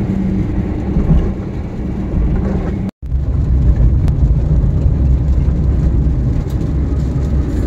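Steady low rumble of a car driving, heard from inside the cabin: road and engine noise. It cuts out for a split second about three seconds in.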